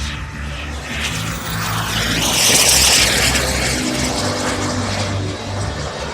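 Radio-controlled model airplane engine flying past: a steady engine note that grows louder to a peak with a rushing hiss about two and a half seconds in, then fades as it moves away.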